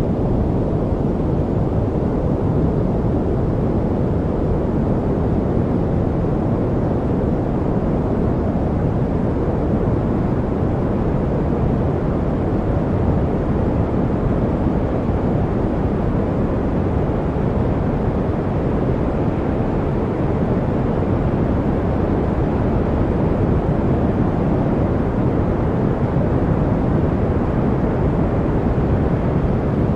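Steady masking noise of the kind sold as white noise, deep and even, its rush weighted toward the low end, with no changes or separate sounds.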